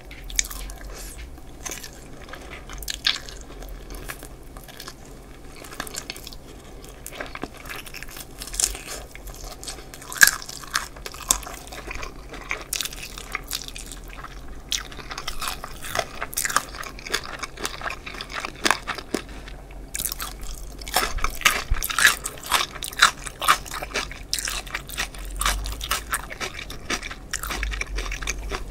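Close-miked crunching and chewing of a crispy deep-fried chicken drumstick: bites crackling through the fried coating, then chewing, with crackles thickest in the second half.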